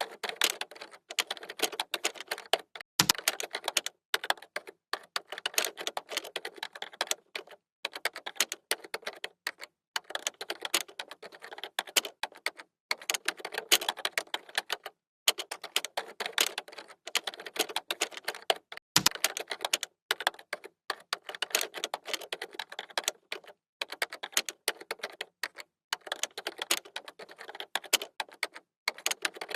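Computer keyboard being typed on in fast, continuous runs of keystroke clicks, broken by short pauses, with two heavier thumps about 3 and 19 seconds in.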